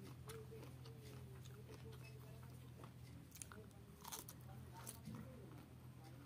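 Faint mouth sounds of a person biting and chewing pieces of pineapple, with a few short wet clicks between about three and five seconds in, over a low steady hum.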